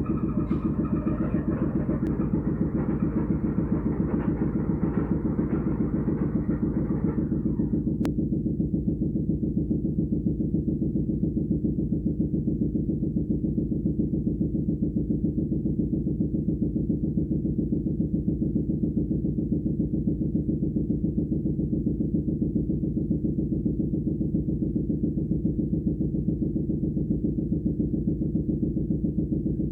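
A steady, low, rapidly pulsing engine-like drone. Its higher part dies away about seven seconds in, leaving only the low hum.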